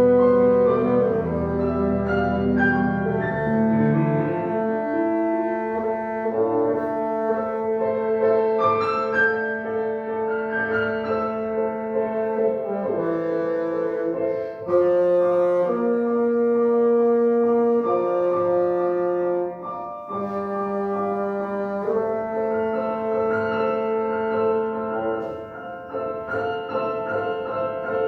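Bassoon playing a slow melody in long held notes over piano accompaniment. One note is sustained for about eight seconds early on, and shorter notes follow.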